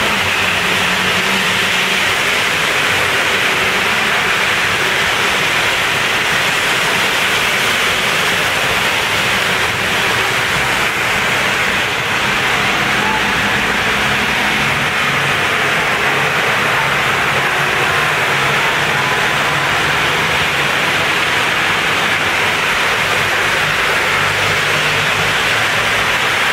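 Heavy rain pouring steadily onto a street, with a low hum of vehicle engines underneath.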